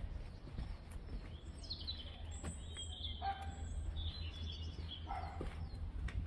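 A small songbird singing two short phrases of chirps and whistles, one about two seconds in and another about four seconds in, over a steady low rumble.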